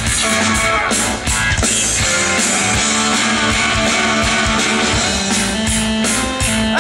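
Rock music: guitar and a drum kit playing together, with a steady drum beat under held guitar notes.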